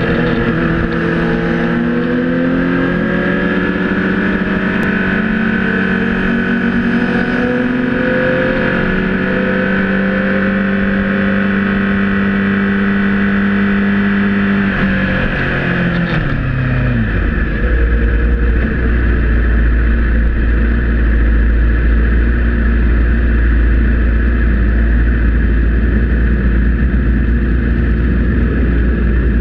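Supersport race motorcycle's engine heard from an onboard camera, running at steady moderate revs with small rises and dips. About fifteen seconds in the revs fall away and the engine settles into a low rumble.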